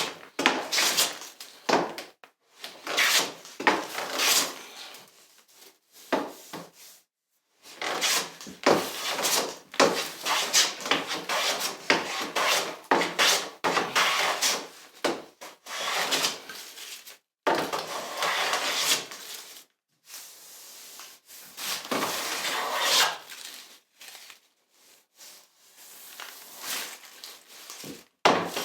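A hand tool worked in repeated strokes along a wooden picture-frame moulding, each stroke a short rasping rub on the wood. The strokes come in runs, broken by a few brief pauses.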